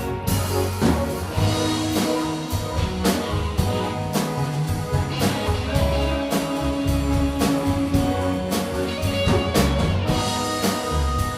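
Rock band playing an instrumental passage without vocals: a drum kit keeps a steady beat under guitar and bass.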